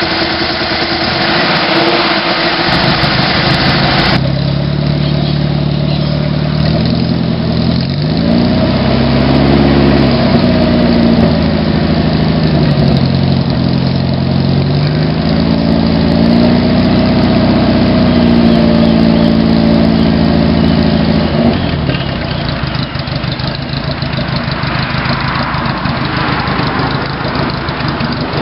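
Subaru L series flat-four engine running while it burns off freshly added upper engine cleaner. It is revved up and down in several slow swells, then drops back to idle about three-quarters of the way through.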